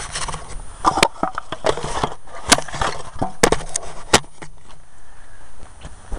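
Camera being handled and set in place: a string of sharp knocks and clicks with scraping and shuffling between them.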